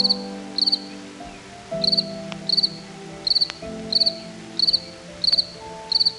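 Insect chirping in short pulsed trills, each of a few quick pulses, repeating evenly about three times every two seconds, over soft background music with held chords.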